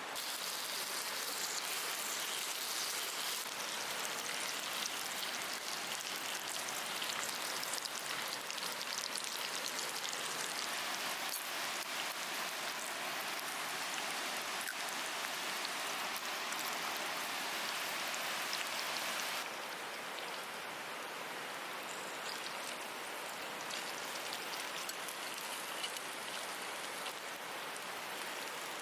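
Food sizzling and spitting in a skillet over an open campfire, a dense steady crackle. It drops a little in level about two-thirds of the way through.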